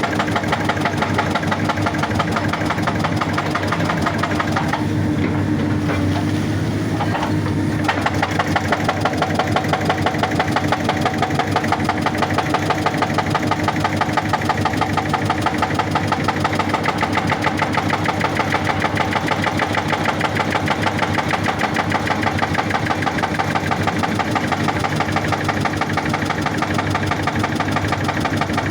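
Excavator's hydraulic rock breaker hammering rock in a rapid, even string of blows over the excavator's diesel engine. The hammering stops for a few seconds about five seconds in, then resumes.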